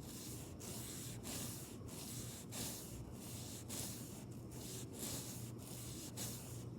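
Makeup brush strokes swishing across the microphone, soft brushing sounds about twice a second.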